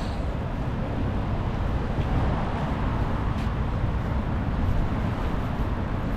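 Steady city traffic noise, a continuous rumble of passing road vehicles, heaviest in the low end.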